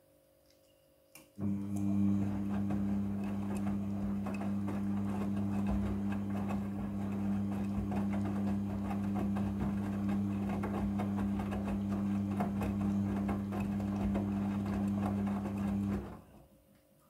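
A small electric machine runs for about fifteen seconds: a steady hum with a fast, dense rattling over it. It starts abruptly about a second and a half in and winds down near the end.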